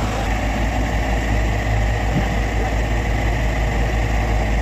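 Excavator's diesel engine running steadily, a low even drone with no revving.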